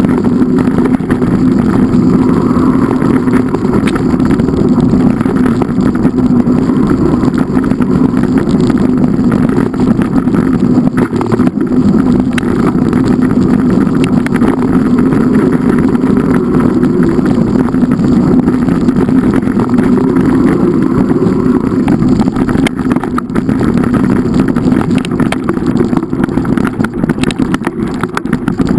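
An engine running steadily and loudly, with no clear change in speed.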